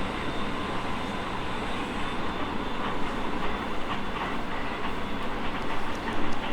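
Running noise heard inside a JR East E217 series electric train carriage: a steady rumble of wheels on rail with a constant whine over it and a few light clicks.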